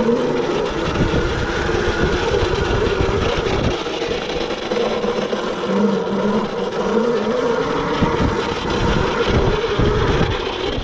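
Yozma IN10 electric dirt bike's motor whining while it is ridden on a dirt trail, its pitch rising and falling again and again with the throttle, over an uneven low rumble from the ride.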